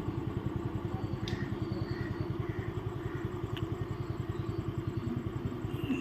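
A vehicle engine running steadily, with a fast, even low pulse.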